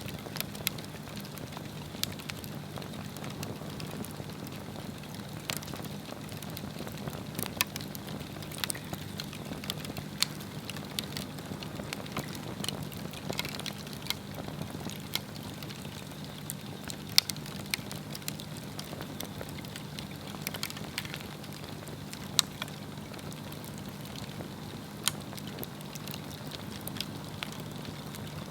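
Swedish torch log burning with a steady crackle and frequent sharp pops, scattered irregularly over a soft hiss. A faint steady low hum runs underneath.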